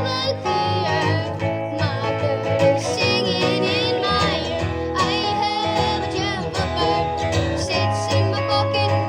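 Acoustic guitar playing with a singing voice over it: a live song in progress.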